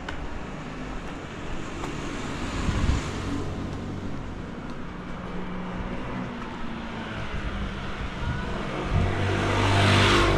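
Street traffic: steady engine hum and road noise, with a vehicle passing close by near the end.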